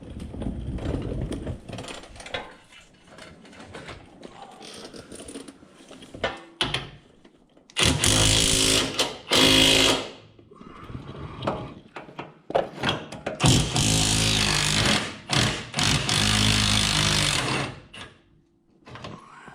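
Impact wrench hammering in bursts on a motor mount tower bolt, working it loose. There is a short burst about eight seconds in and a longer one of about four seconds near the end, with lighter clinks of tools and metal before them.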